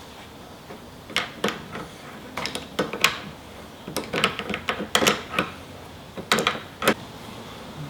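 Irregular metallic clicks and clinks of hand tools working on a car's strut assembly, some single and some in quick clusters of a few clicks.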